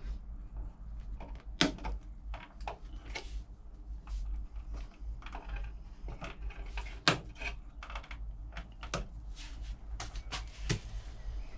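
Irregular clicks and snips of a mains cable's outer sheath being cut back and the cable handled, with a few sharper snaps about a second and a half, seven and eleven seconds in, over a low steady hum.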